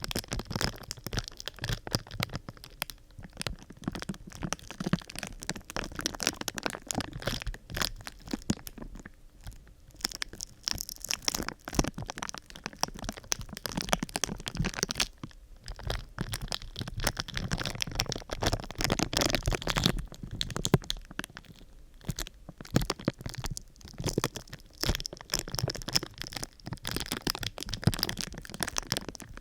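Close-up crinkling and crackling of a thin sheet being scrunched and handled. The sound comes in quick, irregular runs of crackles with a few short pauses.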